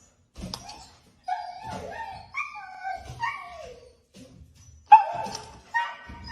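A dog whining in a string of high, downward-sliding cries, with the loudest one about five seconds in.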